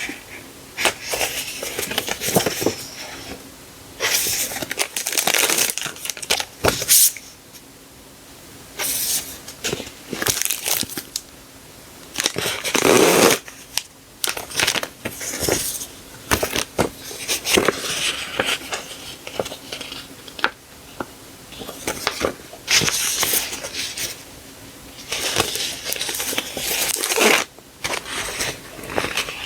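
Paper and plastic sticker packaging being handled, crinkling and rustling in irregular bursts with occasional light clicks.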